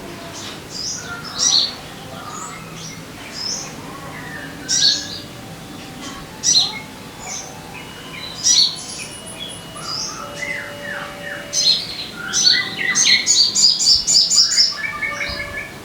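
Sogon bird calling: sharp high chirps that drop in pitch, repeated every second or two, breaking near the end into a fast run of chirps. Fainter, lower whistles sound underneath.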